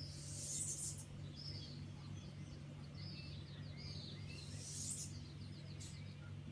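Small birds chirping, with short calls and quick trilled runs, over a steady low hum; two brief rushes of hiss come near the start and again about two-thirds of the way through.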